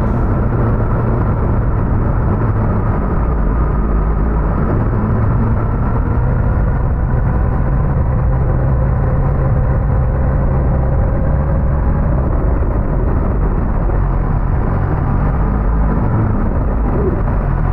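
Suzuki GSX-S1000GT's inline-four engine running steadily under way, with a heavy low rumble of road and wind noise and only slight changes in engine pitch.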